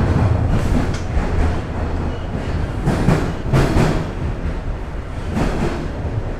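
Bombardier Toronto Rocket subway train running on the track as it pulls into a terminal station. A steady low rumble swells with wheel and track noise about three, four and five and a half seconds in, then eases off.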